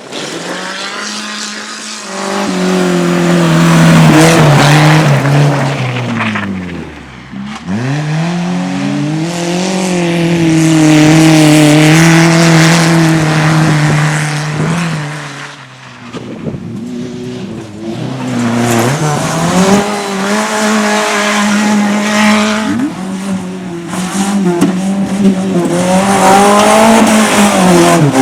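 A rally car's engine held at high revs for several seconds at a time, dropping off sharply twice and revving back up, with tyres squealing on the surface.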